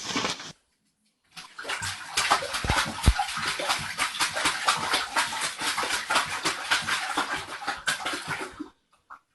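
A dog lapping water from a toilet bowl: quick, even, splashy laps that go on for about seven seconds and then stop abruptly.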